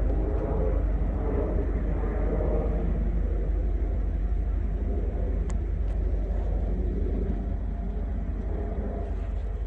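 Distant diesel freight train rumbling low and steady, slowly fading, with a single faint click a little past halfway.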